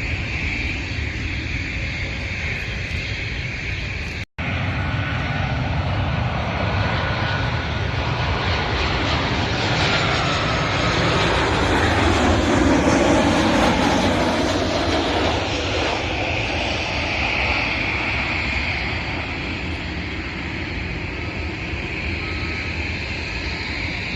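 An airliner's engines passing by, swelling to a loud peak about halfway through and then fading, with a whine that slowly drops in pitch as it approaches. A brief cut-out in the sound about four seconds in.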